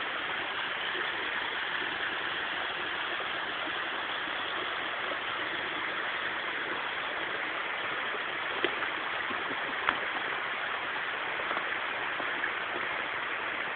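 Steady rushing of a flowing stream, with two brief clicks past the middle.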